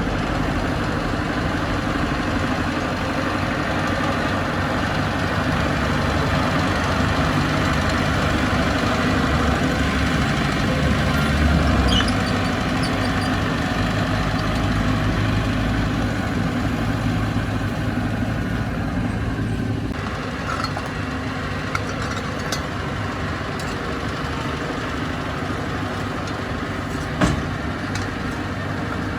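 Bulldozer's diesel engine running steadily, swelling a little about twelve seconds in and easing slightly after about twenty seconds. A few sharp clicks or clanks sound in the later part, one louder near the end.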